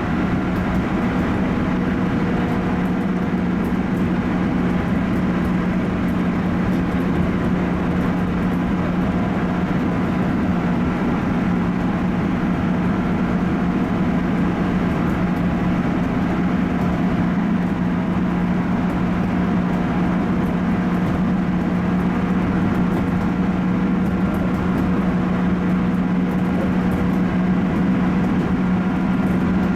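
JR 211 series electric multiple unit running at a steady speed, heard from inside the leading car: an even running and rail noise with a constant electrical hum.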